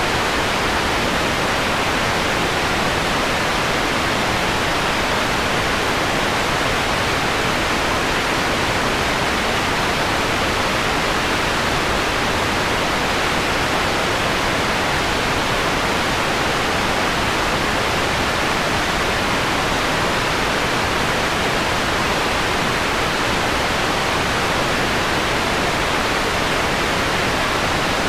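Steady synthetic white noise: an even hiss that holds unchanged.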